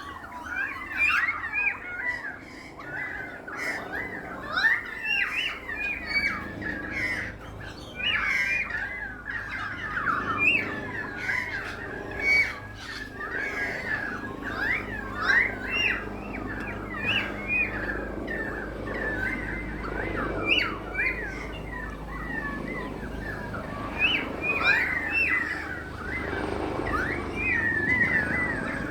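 Many small birds chirping and squawking together in a dense, busy chatter of short, overlapping calls.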